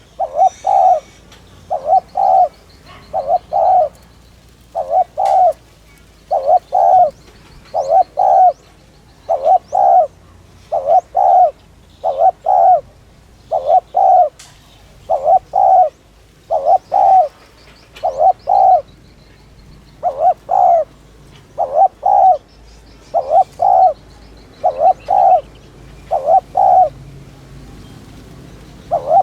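Spotted dove cooing in the fast, repeated 'thúc' style: short phrases of two or three low notes, over and over about every second and a half. Faint high chirps of other small birds sit behind it.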